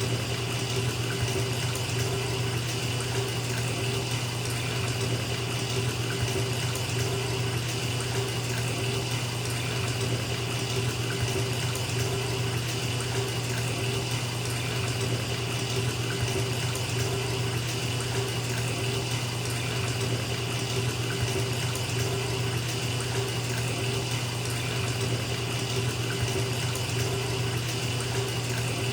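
Bathtub filling from the tap: water pouring into the tub in a steady, unbroken rush.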